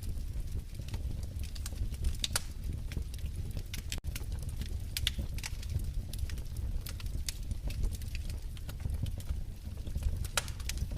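Wood fire in a fireplace crackling: irregular sharp pops and snaps over a steady low rumble of the flames, with a momentary dropout about four seconds in.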